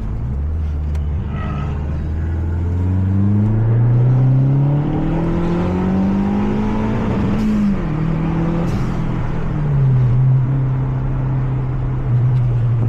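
Mazda 3 MPS's 2.3-litre turbocharged four-cylinder engine pulling hard on track, its note rising steadily for several seconds. The pitch then drops sharply twice and settles at a steady lower note.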